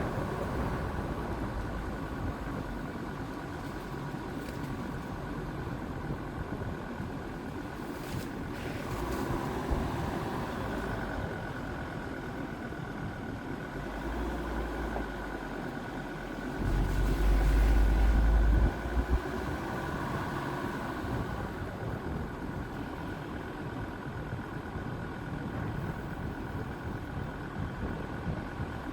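Jeep Grand Cherokee WJ's 2.7 CRD five-cylinder diesel engine running steadily, with a steady whine over its rumble. A louder low rumble swells for about two seconds a little past halfway.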